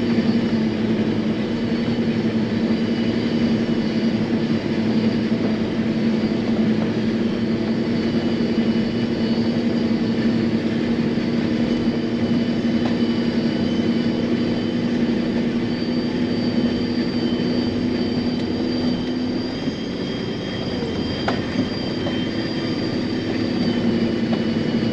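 John Deere self-propelled forage harvester chopping corn, heard from inside its cab: a steady machine drone with a faint high whine over it. The drone dips briefly about twenty seconds in, with a single click soon after.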